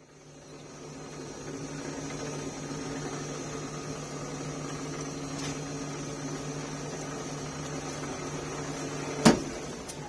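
A 1 horsepower metal lathe running steadily while turning 304 stainless steel, with a low motor hum. Near the end there is one sharp loud click as the E-stop trips, and the motor starts to wind down.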